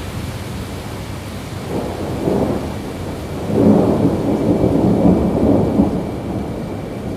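Rolling thunder rumbling over steady rainfall, swelling briefly about two seconds in and then building to a longer, louder rumble through the middle before easing off.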